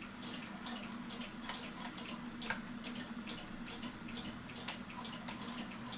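Faint, irregular light clicks and taps of a cuckoo clock bellows being hooked onto its wire lever by hand, over a steady low hum.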